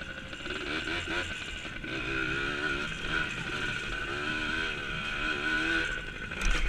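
Small dirt bike engine running under load while ridden, its note rising and falling as the throttle is worked. There is a loud low thump near the end.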